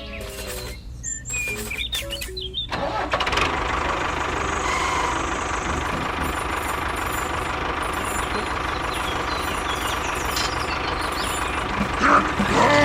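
An engine starting: a few sharp clicks, then about three seconds in it catches and runs steadily.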